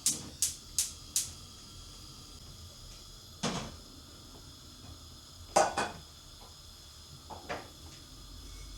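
Household items being handled, giving light knocks and clacks like dishes or cupboard things being set down: four quick taps at the start, a louder double clack about halfway, and a couple of softer knocks near the end.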